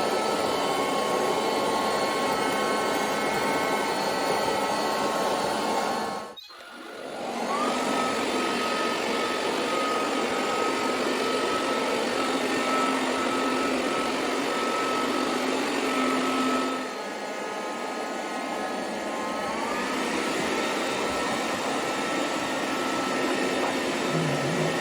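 SilverCrest robot vacuum running with a steady motor noise and a high whine. The sound breaks off for a moment about six seconds in and then picks up again. It turns a little quieter about seventeen seconds in.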